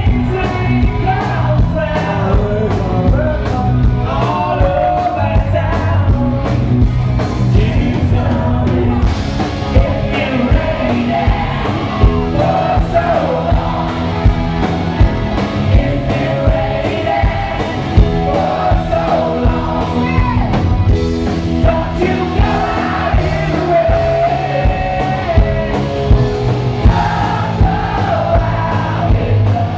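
Live rock band playing a song with a lead singer, drums keeping a steady beat under guitars and bass.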